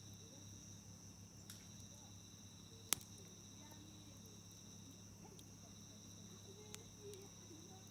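Wood campfire crackling with a few sharp pops, the loudest about three seconds in, over a steady high insect trill.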